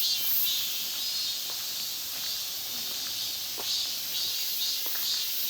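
Chorus of cicadas shrilling, a dense steady high-pitched buzz that swells slightly now and then. A few faint ticks sound through it.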